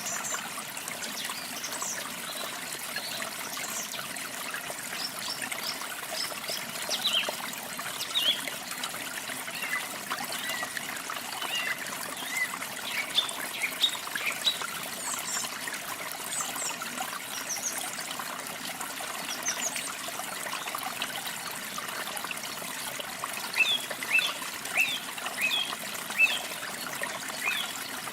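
Running water trickling steadily, with small birds chirping over it in short high calls, coming in quick runs of several chirps around the middle and again near the end.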